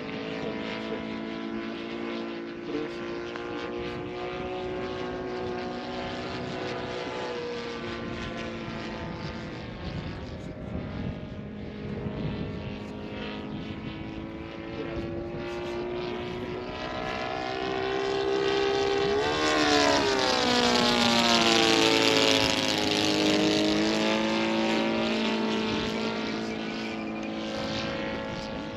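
Laser 200 in-line twin four-stroke glow engine of a radio-control Hurricane model running in flight. It holds a steady drone, then drops sharply in pitch as the plane flies past about two-thirds of the way through, and is loudest just after.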